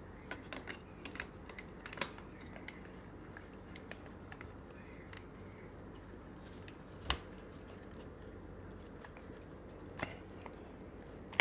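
Scattered light clicks and taps of small plastic parts being handled and fitted into place, with a sharper click about seven seconds in and another near ten seconds.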